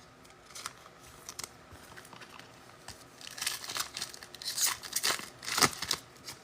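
A trading card pack wrapper being torn open and crinkled by hand: a few light clicks, then a run of crackling rustles in the second half, the loudest just before the end.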